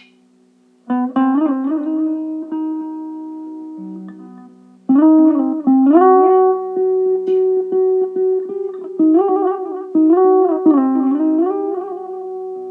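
Electric mandolin playing a slow melody of held single notes that slide between pitches. It comes in about a second in, eases off around four seconds, then picks up again louder.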